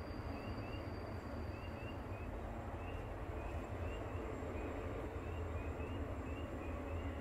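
Steady low outdoor rumble, the kind of distant noise taken for a passing train. Over it, short rising chirps repeat every half second or so.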